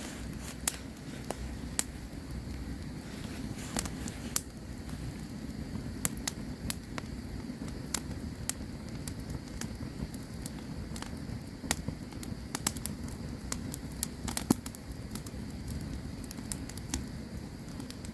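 Campfire burning: irregular sharp crackles and pops of the burning wood over a steady low rumble.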